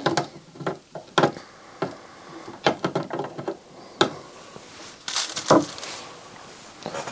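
Side cutters snipping the leads of newly soldered capacitors on a circuit board: a series of sharp, irregularly spaced clicks, with a short rustle about five seconds in.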